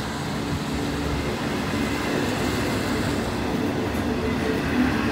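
Norfolk Southern freight train rolling past on the main line, a steady rumble of wagon wheels on the rails with a faint tonal ring.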